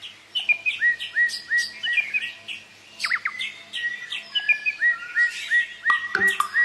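Birds chirping: many short, quick tweets repeated throughout. About six seconds in, a lower, pulsing sound joins in.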